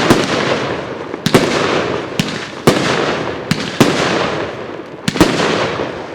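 A fireworks cake firing its shots: the Fire Emblem, rotation tails to red, white and blue peonies. There are sharp bangs roughly once a second, about seven in all, each followed by a fading rush of noise.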